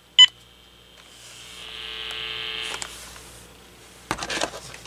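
AT&T 7720 cordless phone giving one short key beep, then a buzzing electrical hum in its audio that swells for about two seconds and fades. The owner suspects an incorrect AC adapter is causing the hum. A short burst of clicks comes near the end.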